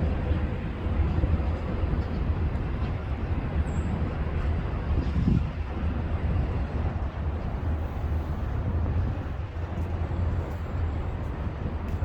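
City street traffic noise: a deep, steady rumble of passing vehicles with no distinct single event.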